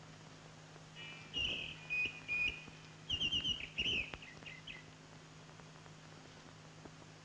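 Bird calls: a run of high chirps and quick trills starting about a second in and lasting some four seconds, with a few low thuds under them, over a steady low soundtrack hum.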